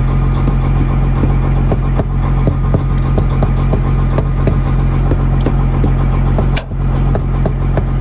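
Semi truck diesel engine idling as it warms up after a cold start, a steady low drone with sharp irregular ticks a few times a second. The engine is still running a little rough from the cold.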